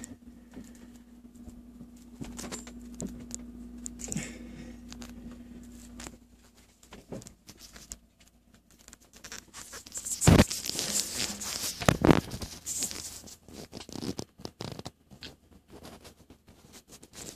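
Scraping and rustling, loudest about ten to thirteen seconds in. A steady low hum runs through the first six seconds, then stops.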